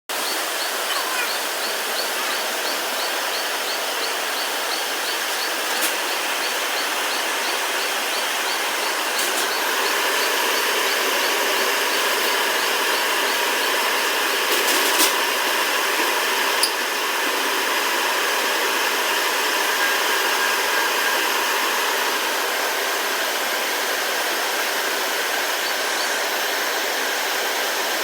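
Steady hiss of rushing air and equipment fans from semiconductor furnace machinery. A faint regular ticking runs at about three a second through the first third, and there are a few sharp clicks.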